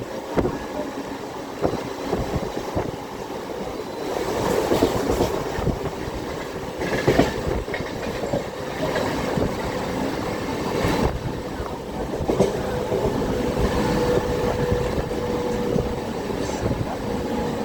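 Mumbai suburban electric local train running at speed, its wheels clacking over rail joints with repeated knocks in a steady rumble. The sound grows louder about four seconds in, and a faint steady whine joins it near the end.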